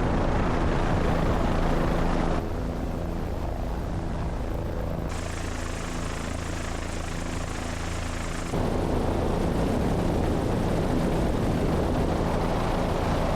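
Helicopter running steadily in flight, a constant rotor and turbine drone. The sound shifts abruptly in level and tone about two and a half, five and eight and a half seconds in.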